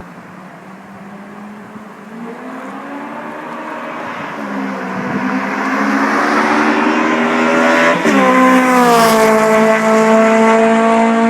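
Honda K20 inline-four engine running under load, growing steadily louder as its pitch slowly climbs. About eight seconds in, the pitch drops sharply, then settles into a steady loud note.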